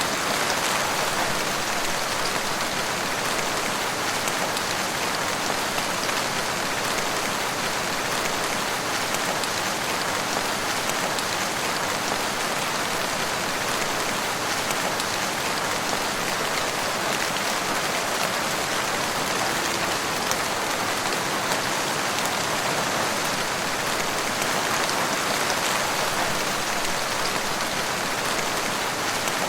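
Steady rain falling in a wood, a dense even patter of many drops with no change in strength.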